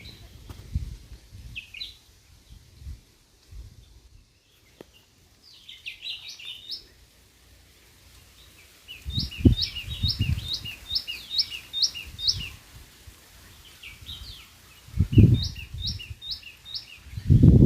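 White-throated fantail singing: runs of short, clear whistled notes, each quickly rising or falling, about eight in a row in the middle and a shorter run near the end. Low rumbling thumps on the microphone come in several times and are the loudest sounds.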